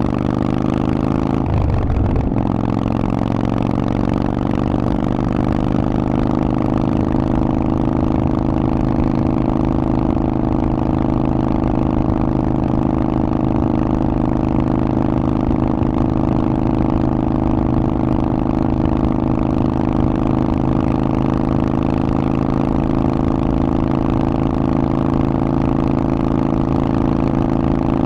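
Harley-Davidson Forty-Eight's 1200 cc air-cooled V-twin running through a Vance & Hines exhaust at a steady pace. Its pitch shifts slightly in the first few seconds and then holds even.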